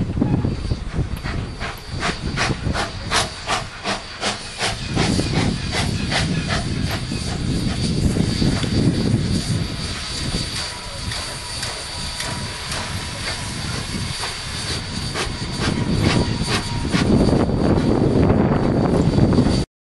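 Steam locomotive with steady hissing steam and a long run of sharp, closely spaced beats, under a low rumble. The sound cuts off abruptly near the end.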